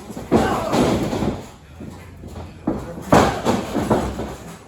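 Wrestlers' bodies slamming onto the wrestling ring, two heavy thuds about three seconds apart with the ring rattling after each, and smaller knocks between.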